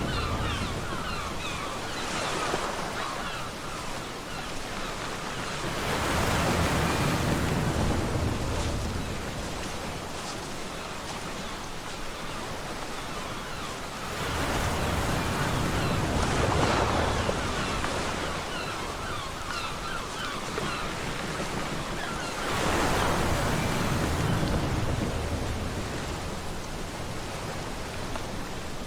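Ocean waves breaking on a beach, a continuous wash of surf that swells with a new breaker about every eight seconds and then ebbs.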